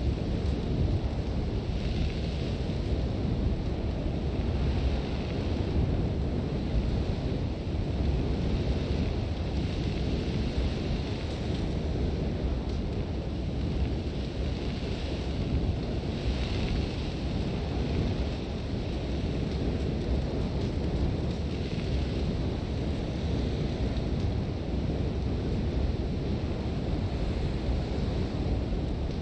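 Sandstorm wind with a deep, steady rumble, and the hiss of blowing sand swelling and fading in gusts every couple of seconds.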